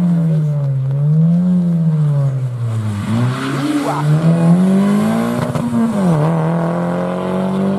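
Rally car engine driven hard on a stage, its note rising and falling as the driver goes on and off the throttle, with a sharp dip about six seconds in before it holds steady.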